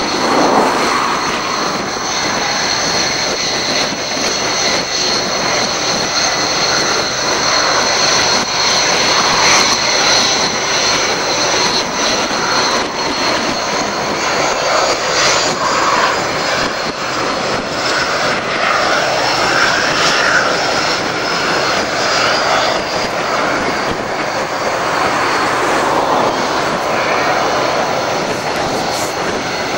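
Fixed-wing aircraft engine running steadily, a continuous rush with a high-pitched whine over it.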